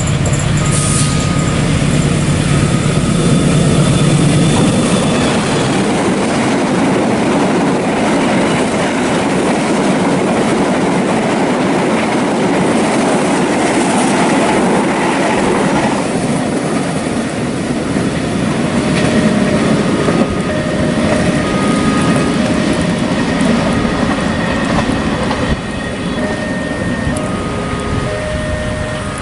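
Diesel-hauled express passenger train passing close at speed. For the first few seconds the locomotive's engine rumbles low, then a long rush of carriages follows. In the second half, short high squealing tones from the wheels come and go.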